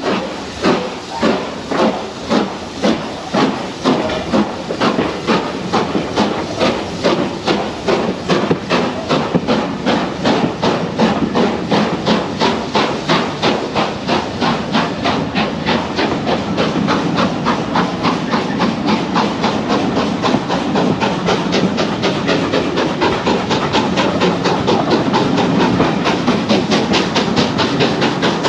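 Steam locomotive pulling away, its exhaust chuffing in regular beats that quicken steadily and grow louder as the train gathers speed.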